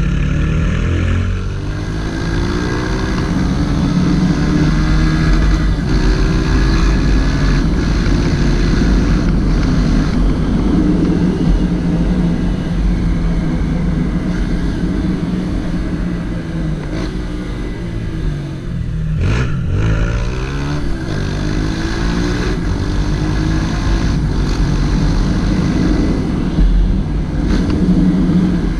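Honda CG Titan 160's single-cylinder four-stroke engine running under way, its pitch rising and falling with the throttle and gear changes, with a clear drop and climb in revs about two-thirds of the way through. A steady rushing noise of wind and road runs under it.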